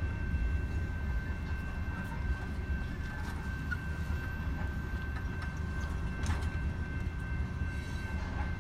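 Long coal freight train rolling past a crossing: a steady low rumble of the railcars, with a thin steady high tone and a few scattered clicks.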